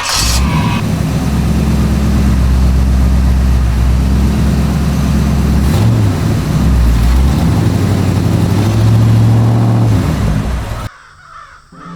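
A motor vehicle or tractor engine running loud and low, its pitch shifting up and down a few times, then cutting off abruptly near the end.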